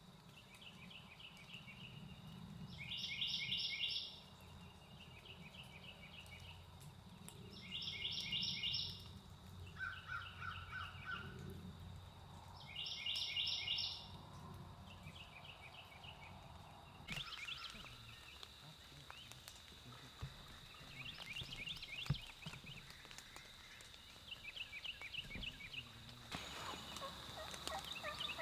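Wild turkeys gobbling repeatedly: a loud rattling gobble every five seconds or so, with fainter calls between them and continuing later.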